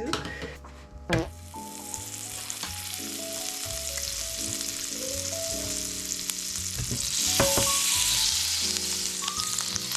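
Pancake batter sizzling in a hot frying pan, with a knock about a second in. The sizzle grows louder about seven seconds in.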